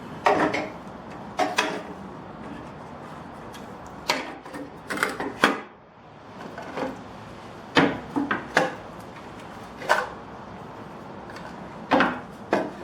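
A cordless circular saw being handled on a wooden surface, with its motor off: a string of separate knocks, clunks and scrapes.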